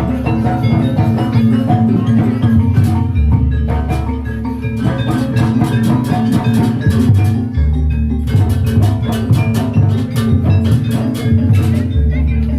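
Jaranan gamelan music played live: struck metal mallet instruments ringing out quick notes and drums beating over a held low bass note that shifts about every four seconds. The drumming grows denser in the second half.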